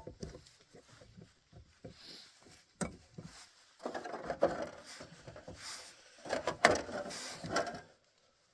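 Irregular knocks and clattering, with two busier stretches of rattling about four and about six and a half seconds in, stopping shortly before the end.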